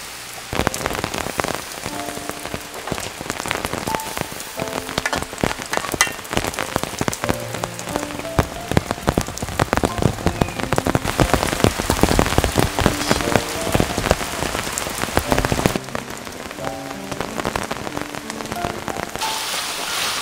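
Food frying in hot oil in a steel wok: a dense sizzle full of sharp crackling pops, easing off about three-quarters of the way through and coming back as a softer hiss near the end.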